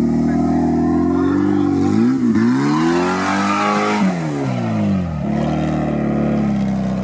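Suzuki Samurai off-road 4x4's engine running under load. About two seconds in it revs up hard, peaks around the middle, and falls back about five seconds in.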